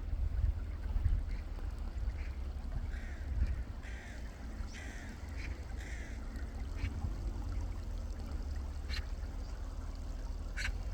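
Birds calling, a run of short calls between about two and seven seconds in, over a steady low rumble, with two sharp clicks near the end.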